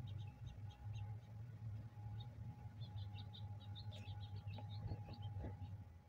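Small songbirds chirping in quick runs of short high notes, thickest in the second half, with a few soft clicks near the end, over a steady low hum.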